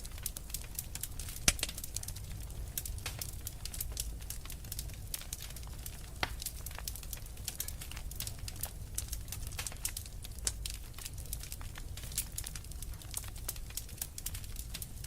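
Wood fire crackling and popping in a fireplace: many irregular sharp snaps over a steady low rumble of burning logs, with one louder pop about a second and a half in.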